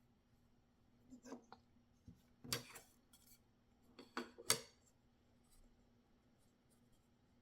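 Close-up handling of a knife and its packaging: a few sharp clicks and short scrapes in three small clusters, the loudest about four and a half seconds in.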